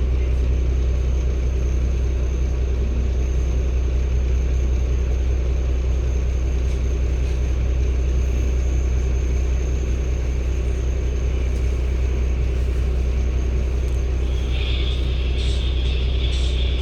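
Cummins ISB 280 PS Euro 6 diesel engine of a 2016 NEW BS090 city bus running with a steady low rumble. A hiss comes in near the end.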